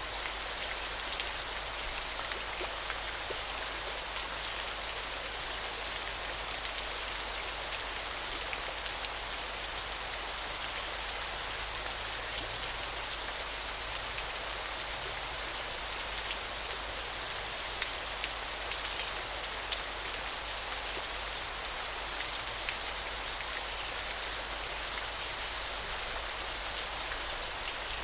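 Steady rush of flowing river water. Over it a high insect buzz fades away in the first few seconds. From about eleven seconds in, a high trill repeats about every two and a half seconds, each lasting a second or so.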